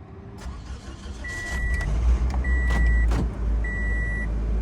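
Toyota Matrix engine started cold and settling into a low, steady exhaust rumble through a freshly repaired exhaust pipe, a tiny bit loud from a muffler with small holes. An in-car warning chime beeps about once every second over it.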